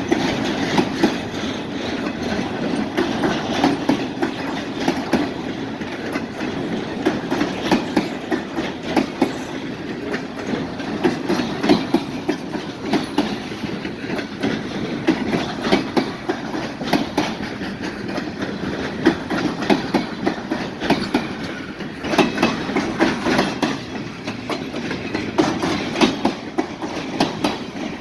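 Freight train cars rolling past, their wheels clicking over rail joints in an uneven string of clacks over a steady running noise.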